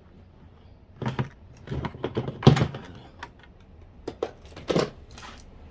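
Hard plastic clicks and knocks of a case fan and its screws being fitted into a PlayStation 3 shell by hand: a run of sharp, uneven taps, the loudest about two and a half seconds in.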